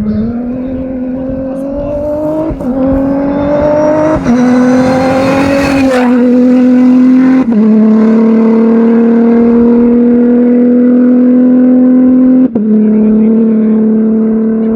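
Rally raid car engine accelerating hard through the gears. The pitch climbs and breaks briefly at each upshift, four times in quick succession. It then runs steadily at high revs, with one more short break near the end.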